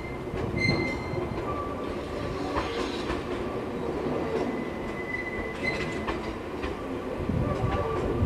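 Echigo TOKImeki Railway ET127 series electric train running on depot tracks: wheels rumbling, with short high-pitched wheel squeals several times and sharp clicks of wheels over rail joints.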